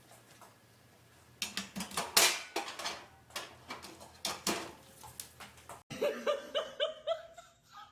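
A rapid run of clattering knocks and rattles, like hard objects being knocked about. It stops abruptly and is followed by a short run of quick, pitched, pulsing sounds.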